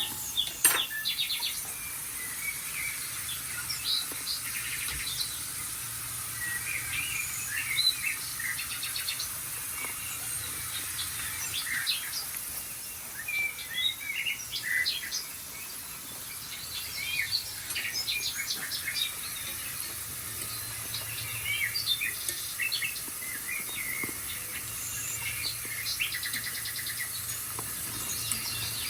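Several small birds chirping and calling in short, overlapping bursts, from the bird-sound programme playing on a TV.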